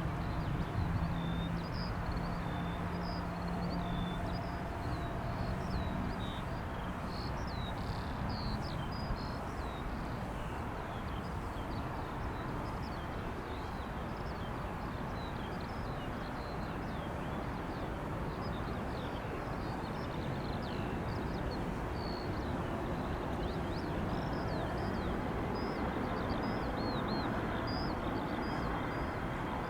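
Steady low rumble of jet aircraft engines some way off, swelling a little near the end, with small birds chirping throughout.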